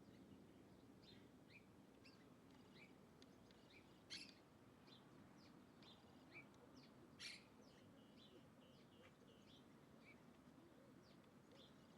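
Faint chirping of small birds, many short high calls scattered through, with two louder sharp sounds about four and seven seconds in.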